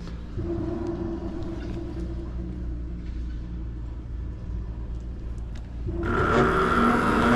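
Steady low vehicle rumble, then about six seconds in a much louder vehicle sound with a whine of several tones sets in.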